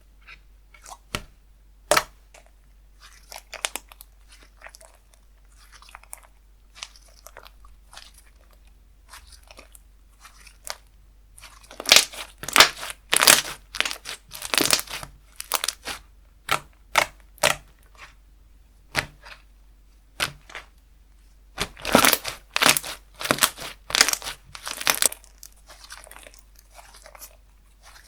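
Slime being pressed, stretched and poked by hand, giving scattered sharp clicks and crackles, with two bouts of dense crunching about twelve and twenty-two seconds in.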